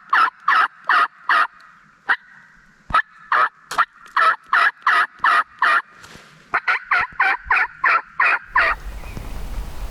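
Turkey call worked by a hunter, sounding runs of loud, sharp hen-turkey yelps: one run at the start, a slower series through the middle, and a faster run near the end.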